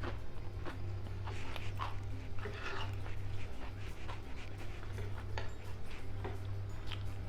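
Close-miked eating: irregular soft chewing clicks and mouth smacks over a steady low hum.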